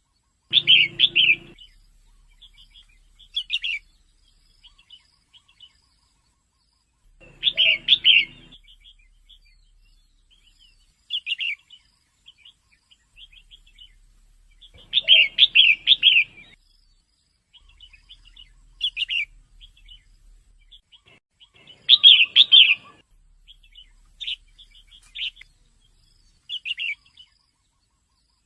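Female red-whiskered bulbul calling: loud clusters of quick chirps about every seven seconds, with softer single chirps between them.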